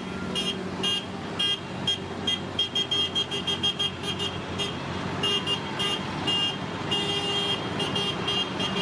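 A shrill, high-pitched horn tooting in quick, uneven short beeps, several a second, with a few longer toots near the end, over the steady running of tractor engines.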